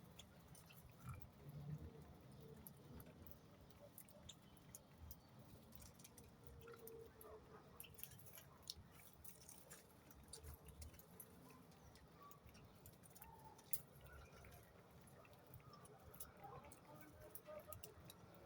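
Near silence, with faint scattered ticks and soft rustles.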